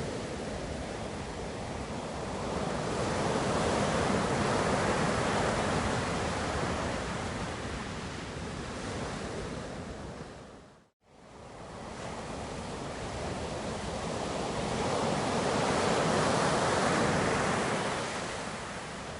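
Ocean surf: the wash of waves swells and fades twice, each surge building for several seconds and then easing off. About halfway through, the sound drops briefly to silence and then comes back.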